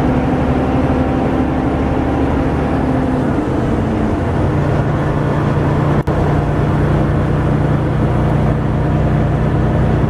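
Freightliner Inspiration Truck's diesel engine and road noise at highway cruise, heard inside the cab: a steady drone whose engine note settles lower about four seconds in. The sound cuts out for an instant about six seconds in.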